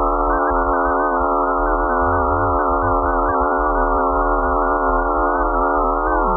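A sonified space recording: a dense chord of many steady electronic tones that waver slightly, over a low hum.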